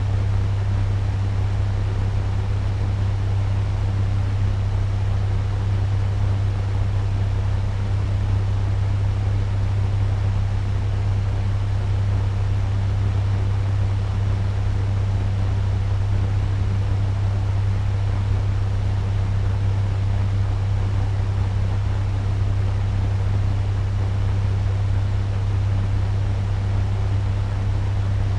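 Turbo fan running steadily at medium speed: an even rush of air with a strong low hum.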